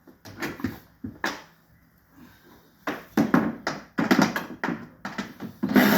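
Irregular clicks and knocks of hand work on the bumper's fasteners, thicker from about halfway; near the end a cordless power tool starts running steadily.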